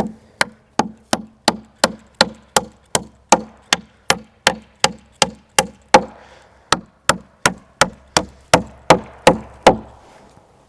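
Hammer driving nails into wooden fence boards: a steady run of about two dozen sharp blows, roughly three a second. The blows pause briefly a little after six seconds and stop about a second before the end.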